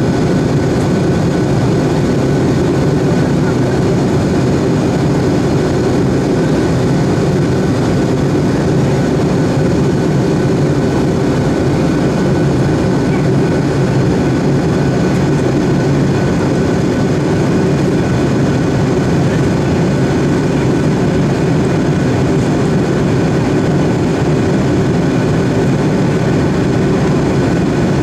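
Boeing 757 jet engines and airflow making a loud, steady noise, with a few faint steady tones running through it and no change in pitch or level.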